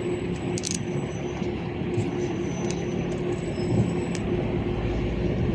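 LiAZ 5292.65 city bus under way, heard from inside the passenger cabin: steady engine and road noise with a constant hum and a few light clicks and rattles.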